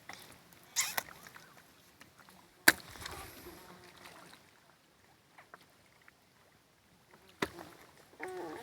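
A few sharp knocks, the loudest about two and a half seconds in, with faint rustling noise between them.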